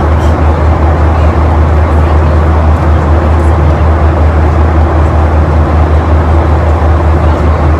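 Steady, loud airliner cabin noise: the constant low drone of the jet engines and airflow, heard through a phone's microphone.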